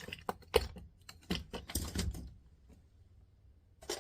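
Irregular light clicks and taps of small metal and plastic parts being worked by hand, as the weight is worked out of a turntable tone arm; the sharpest tap comes about half a second in, with a last one near the end.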